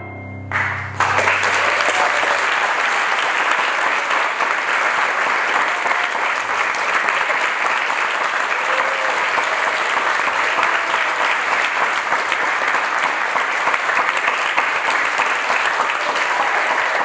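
Concert audience applauding steadily, breaking out about a second in as the orchestra's final chord dies away, with a few voices calling out over the clapping.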